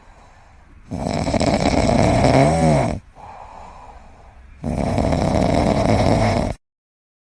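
Snoring, most likely a sleeping pet: two long loud snores about two seconds each with quieter breaths between them, the first wavering in pitch near its end. The sound cuts off to dead silence shortly before the end.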